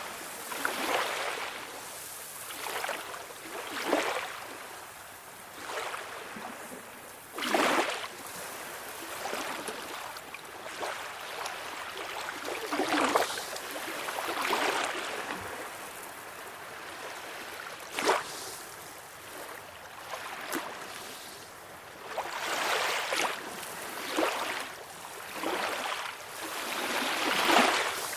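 Small waves lapping and splashing at the water's edge over a steady wash of surf, with a splash every second or two and a few sharper slaps.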